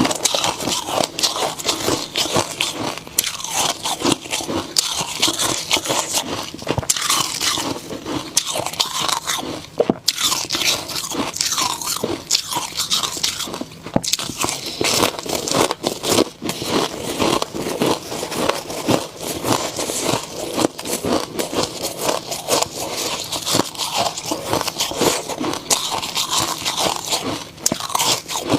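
Snow ice being bitten and chewed close to the microphone: dense crunching and crackling that goes on without a break.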